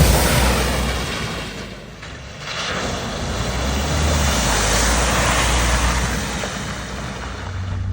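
A vehicle driving through flood water at a ford: its engine running under a steady rushing spray of water that dips briefly about two seconds in, then swells again.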